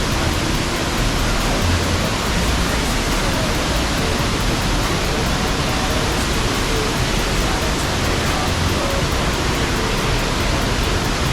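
Waterfall rushing: a steady, loud wash of water noise with a low rumble underneath.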